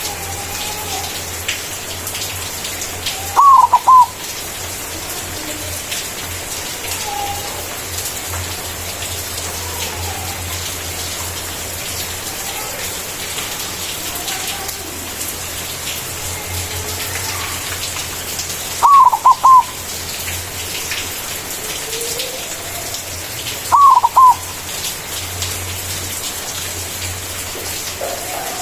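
White zebra dove (perkutut) cooing loudly in three short bursts, each a quick run of about three falling notes, over a steady hiss like light rain. Fainter short coos sound in between.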